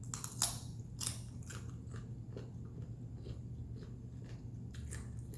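Close-miked mouth sounds of a person biting and chewing crunchy chicken wings: a few louder crunching bites in the first second or so, then steady smaller chewing clicks.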